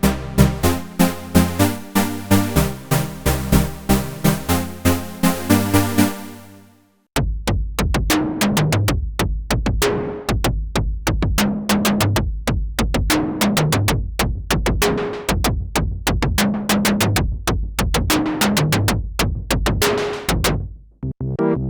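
Sequential Fourm analog polysynth playing a fast repeating sequenced pattern that fades out about six seconds in. After a short gap it plays a drum-machine-style patch: a steady rhythm of deep synthesized kicks, sharp clicky hits and short pitched blips, all made by the synth's own voices with no effects.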